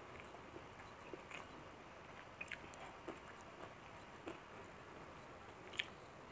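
Faint eating sounds from rice with curried chicken liver eaten by hand: quiet chewing with scattered small mouth clicks and smacks, the sharpest click near the end.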